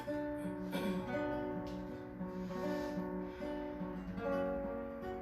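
Acoustic guitar strumming a steady run of chords as the instrumental introduction to a song, before the voice comes in.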